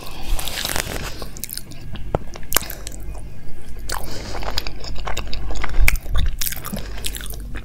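Close-miked chewing and wet mouth sounds of someone eating soft gulab jamun soaked in rabri, with many small clicks and smacks.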